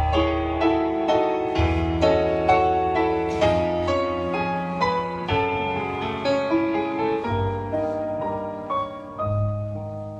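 Piano-sounding keyboard playing a slow melody, with a new note roughly every half second over held low bass notes: the instrumental introduction of a Christian song, with no singing yet.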